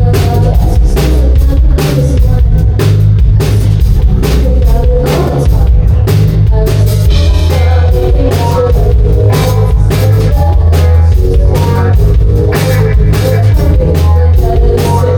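Rock band playing live, with a drum kit keeping a steady beat under guitar.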